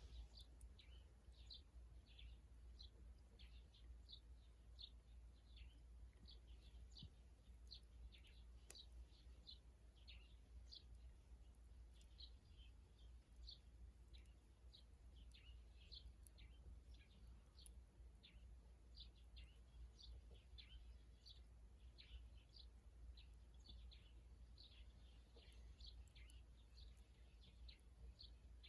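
Small birds chirping, faint short high calls several times a second, over a steady low rumble.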